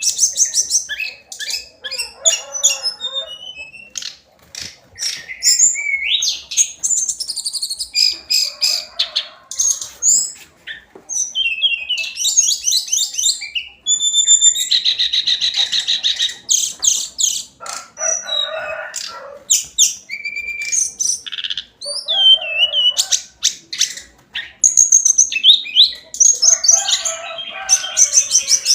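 Hill blue flycatcher singing continuously: a fast, varied run of high whistles, trills and rapid repeated notes, broken by short pauses, with a few harsher, lower rasping phrases mixed in.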